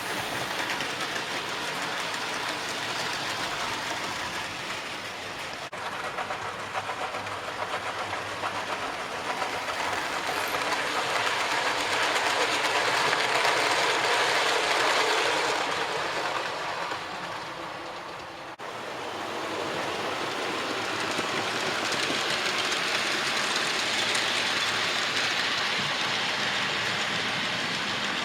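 Model trains running on the layout's track: a steady rolling rumble of wheels on rail with light clickety-clack, swelling as a train comes close about halfway through, then easing off.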